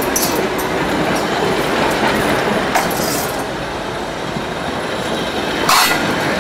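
Museum-train passenger coaches rolling past close by: a steady rumble and rattle of wheels on rails with scattered clicks, and one loud clack near the end.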